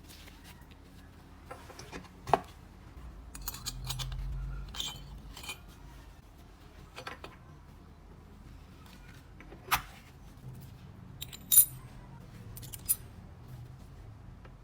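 Small metal engine parts and hand tools being handled, with scattered clinks and clatters. A short ringing metal clink about two-thirds of the way through is the loudest.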